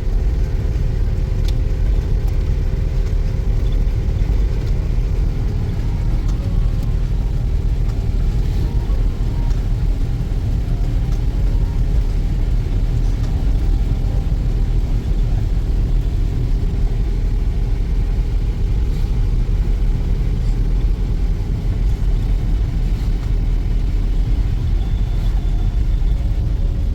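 A car running, giving a steady low rumble that swells up just as it begins and then holds even.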